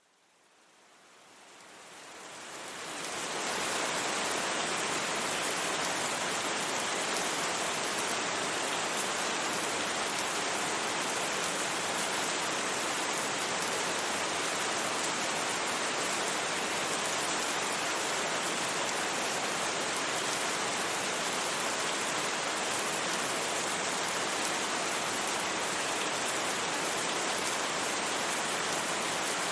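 Steady rain ambience, an even hiss of rainfall that fades in over the first few seconds and then holds constant.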